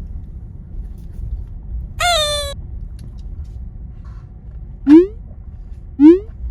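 Two identical short rising cartoon-style sound effects about a second apart near the end, the loudest sounds, after a brief high squeak that falls in pitch about two seconds in, over a low steady rumble.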